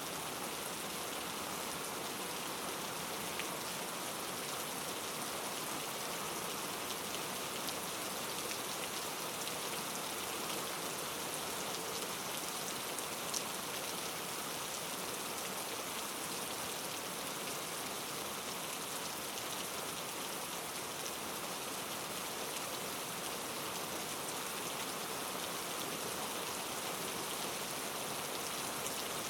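Steady rain falling, an even hiss of many small drops with no thunder, and one small louder drop or tick about halfway through.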